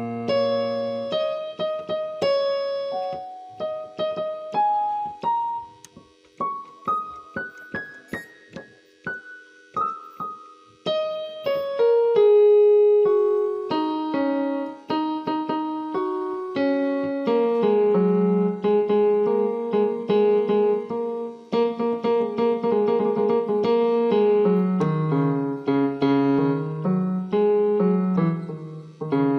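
Background piano music: single notes climbing stepwise in the first half, then fuller repeated chords with a moving bass line.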